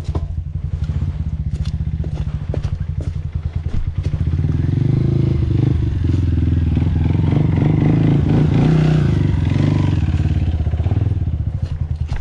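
Dirt bike engine running at low revs, then held on the throttle and louder from about four seconds in, easing off again near the end.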